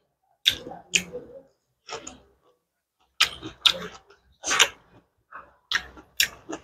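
Close-miked eating sounds: chewing with short, sharp wet mouth clicks and smacks at irregular intervals, about eight in all.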